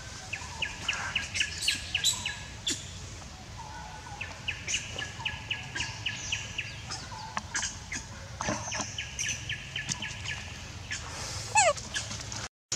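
Wild birds calling: a quick run of short chirps, about seven a second, comes three times, with other scattered bird calls between. The sound drops out briefly near the end.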